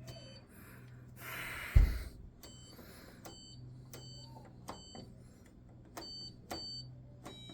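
Hoover H-Wash 300 Pro washing machine's control panel giving a series of short electronic beeps at uneven intervals while the machine shows its E20 drain-pump fault, over a faint low hum. A single loud thump sounds a little under two seconds in.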